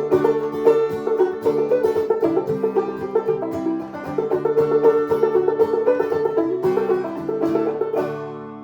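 An acoustic string band plays fast picked notes over strummed chords, then ends on a final chord that rings out and fades near the end.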